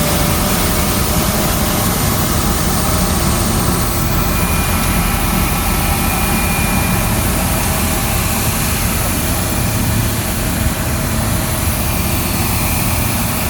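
Vacuum road-cleaning truck running steadily: a loud continuous engine-and-machinery noise with faint steady whining tones over it.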